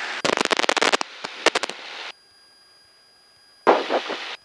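Crackling and rapid popping from an aircraft headset intercom, switching on and off abruptly twice with near silence between: the voice-activated mic opening on noise rather than speech. The engine is not heard.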